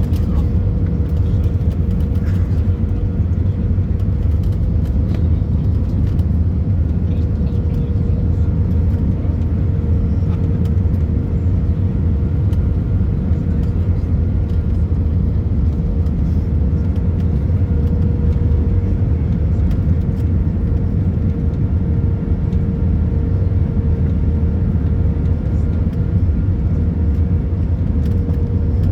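Airbus A319 cabin noise: a steady low rumble of engines and airflow, with a faint constant hum riding on it.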